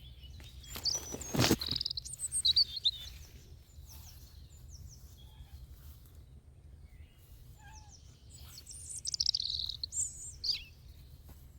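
Small birds chirping and trilling in two short bouts of quick high notes, over a steady low rumble. A brief loud thump comes about a second and a half in.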